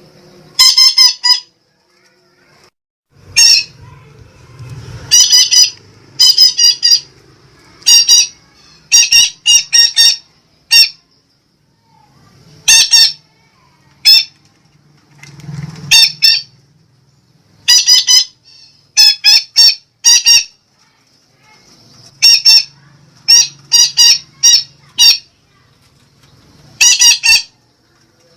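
Sumatran betet parakeet giving loud, shrill calls in quick groups of two to four, repeated every second or two.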